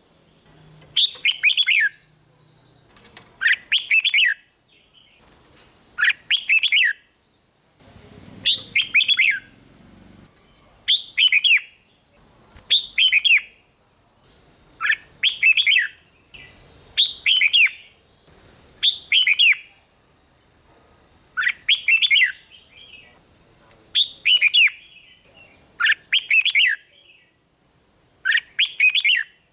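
Red-whiskered bulbul singing short, bright song phrases about every two seconds, over a faint steady high-pitched tone.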